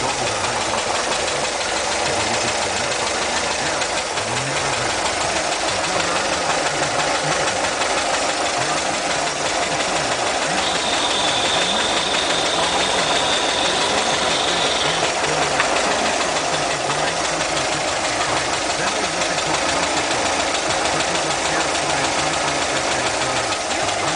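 Volkswagen Vanagon engine idling with a steady hiss from a vacuum leak. A thin, high whistle joins in for a few seconds midway.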